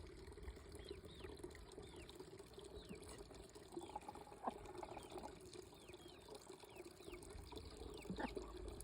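Garden water fountain trickling steadily, with chicks peeping faintly in short falling peeps throughout.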